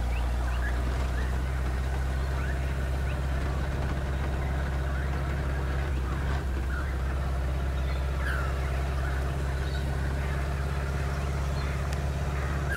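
Four-wheel-drive vehicle's engine droning steadily while driving, with a few short rising chirps over it.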